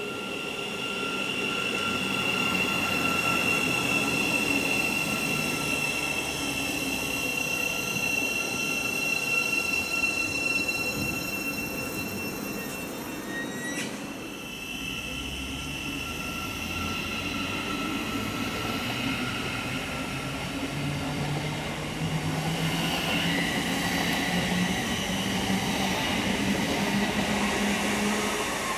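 A train running through the station, with several steady high-pitched whining tones over the rumble of wheels on rail. Halfway through there is a sharp click, and over the last several seconds a low tone rises steadily in pitch.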